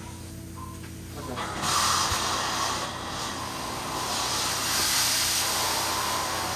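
Carpet cleaning machine running with a steady airy suction hiss that comes on much louder about a second and a half in.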